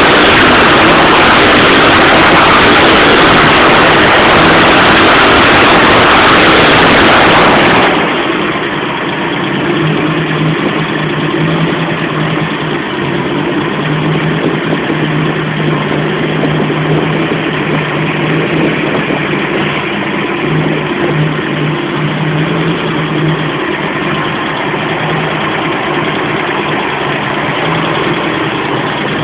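Hopped-up Ford 302 V8 running loud at raised revs, then about eight seconds in dropping suddenly to a steady idle that carries on to the end.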